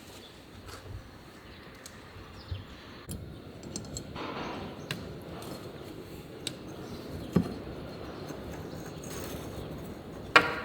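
Hand tools and small metal engine parts clicking and tapping intermittently during a motorcycle engine rebuild, with one sharp metallic clack near the end.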